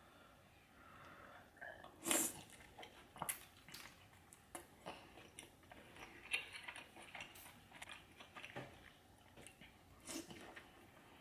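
A person chewing and biting seafood-boil food close to the microphone: irregular wet mouth clicks and crunches, the loudest crunch about two seconds in.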